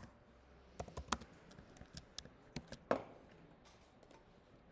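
Faint, scattered keystrokes and clicks on a computer keyboard, about a dozen irregular taps over three seconds, the loudest near the end of the run.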